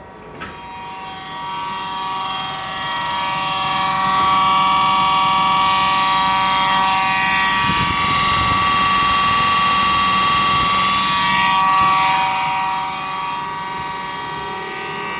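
Faulty fan in an LG side-by-side refrigerator running noisily: a loud, steady whirring whine with several tones at once. It starts after a sharp click, swells over the first few seconds and eases off near the end. This fan is the source of the refrigerator's noise problem.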